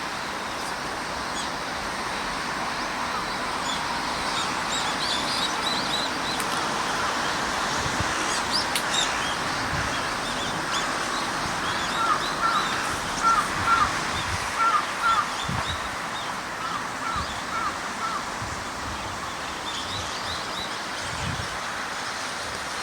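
Wild birds calling over a steady background hiss: faint high chirps early on, then, about halfway through, a run of short call notes repeated in quick pairs and threes for several seconds.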